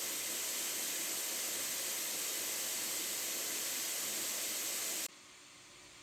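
A steady, bright hiss of noise with no tone or rhythm in it, cutting off abruptly about five seconds in.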